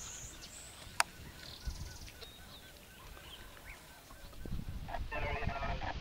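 Birds calling with small high chirps and whistles, a sharp click about a second in, then near the end a louder, rapidly pulsing honking call over a low rumble.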